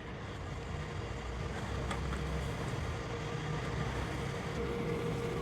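Steady low rumble of a running engine or motor, with a faint steady whine coming in near the end.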